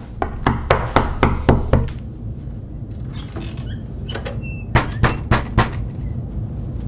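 Rapid knocking on a door: a run of about six quick knocks, a pause with a brief squeak, then a second run of four knocks, over a steady low hum.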